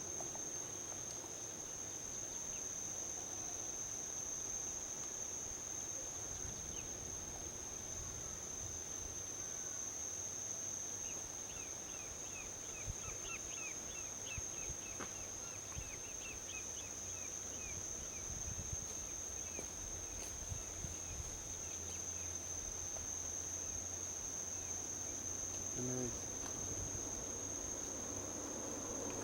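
Crickets trilling in one steady, high, unbroken note over a low, even rumble of distant highway traffic. A run of quick chirps comes in near the middle.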